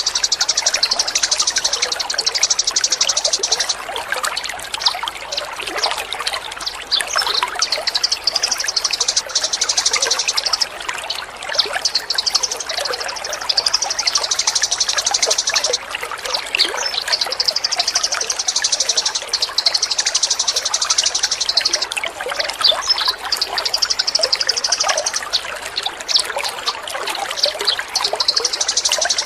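Small songbird singing fast, high trills in repeated bouts of two to four seconds each, over steady trickling water.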